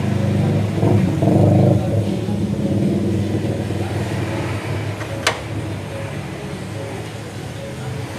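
Toyota Kijang EFI engine running, swelling briefly as it is revved about a second in, then settling back to a steady run. A single sharp click sounds just past the middle.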